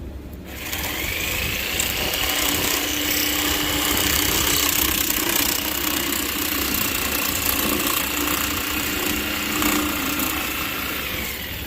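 Electric power tool running for about ten seconds. Its motor whine rises as it spins up about a second in, holds steady, and falls away as it winds down near the end.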